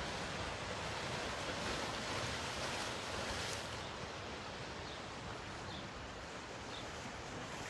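Steady rushing of Baltic Sea surf, easing slightly about halfway through, with a few faint short high chirps near the end.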